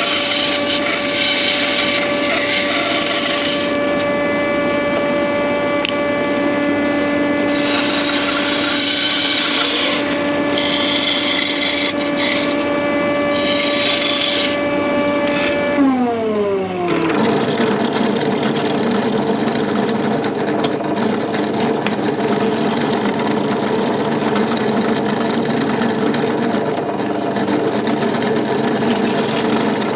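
Electric woodworking saw cutting pine: a steady motor hum with repeated bursts of cutting noise as the blade goes through the wood. About sixteen seconds in the motor winds down, its pitch falling, and a different steady machine noise takes over.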